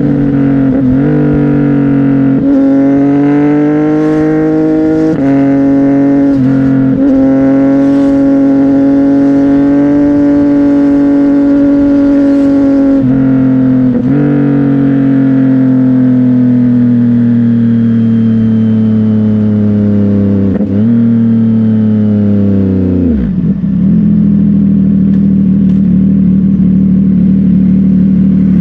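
CFMOTO 675NK's inline-three engine through a Burnout titanium exhaust, ridden on the road: the engine note holds and climbs with brief breaks at gear changes every few seconds, then the revs fall steadily and drop to a lower, steady idle about 23 seconds in.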